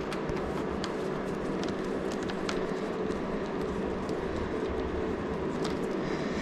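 Steady background hum with a few scattered light clicks of hand tools on metal as the motorcycle's fuel-tank bolts are undone.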